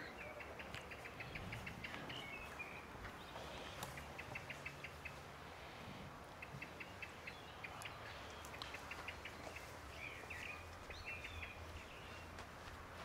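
Faint birdsong: a bird repeating short, rapid trills of evenly spaced notes, about ten a second, every few seconds, with other chirps between.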